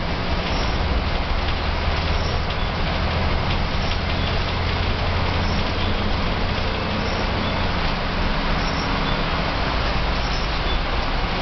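Volvo B10M bus's mid-mounted six-cylinder diesel engine running steadily under way, heard from inside the passenger cabin, with a low hum and road noise throughout.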